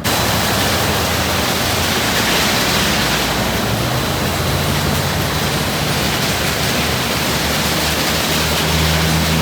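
Water jets in an automatic car-wash tunnel spraying onto the car, heard from inside the cabin: a loud, steady hiss that starts suddenly, over a low hum from the tunnel machinery.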